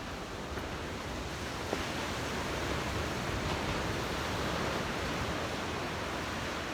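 Ocean surf washing onto the beach: a steady rushing that swells slightly in the middle, with one small click about two seconds in.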